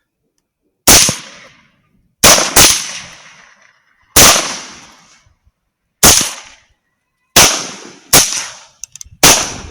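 Rifle shots fired at feral hogs: eight sharp cracks at irregular spacing, some in quick pairs, each trailing off in a short echo.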